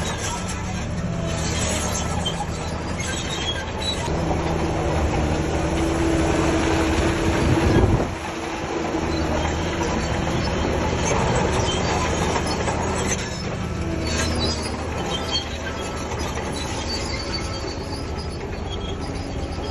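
Shantui DH17C3 crawler bulldozer working, its diesel engine running under load with the steel tracks clanking and squealing. The engine note rises and peaks about eight seconds in, then drops back.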